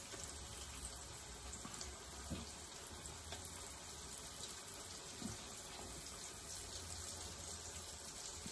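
Cassava pieces frying in shallow oil in a frying pan: a steady sizzle.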